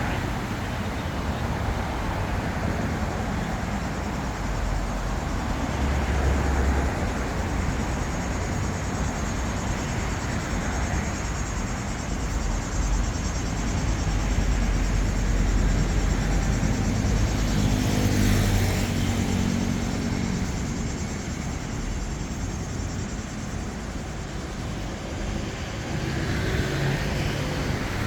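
Road traffic on a city street: vehicles driving past with a steady low rumble, and a heavier engine hum that swells through the middle and fades.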